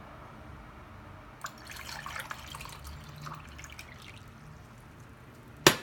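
Hot water poured from a saucepan, splashing and trickling for a couple of seconds, followed near the end by a single sharp knock.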